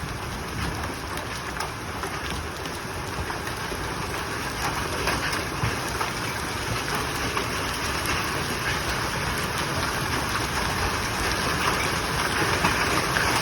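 Heavy rain with hail starting to pelt down: a dense hiss with scattered sharp taps, slowly growing louder.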